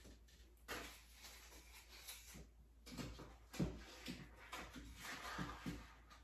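Small vinyl rolls being handled and set into a storage holder: faint rustling with scattered light knocks, the loudest about three and a half seconds in.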